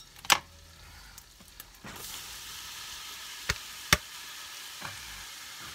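Chopped onion and garlic dropped into hot olive oil and browned chicken sausage, sizzling steadily from about two seconds in. There is a click near the start and two sharp knocks a little past halfway.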